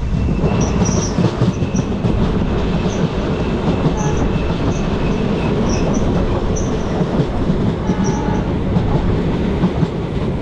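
Trains running on the rails, heard from the open doorway of a moving coach as another train passes alongside. A loud, steady rumble of wheels on track, dotted with short high squeaks.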